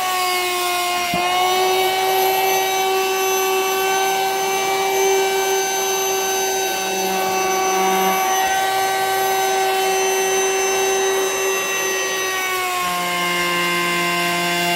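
Vacuum cleaner motor running steadily with a high whine, drawing the air out of a vacuum storage bag of plush toys. Its pitch drops slightly near the end.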